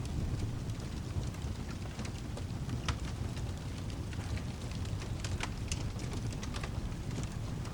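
Fireplace crackling, with scattered sharp pops, over a steady low rumble of storm ambience with rain.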